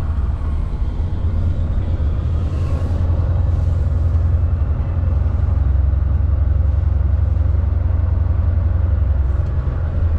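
Semi truck running on compressed natural gas, heard from inside the cab while driving: a steady low engine and road rumble. Two short hisses about two and a half and three and a half seconds in.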